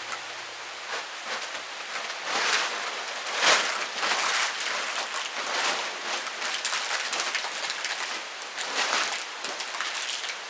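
Rain pattering on a plastic tarp overhead, an even hiss with a few louder swells.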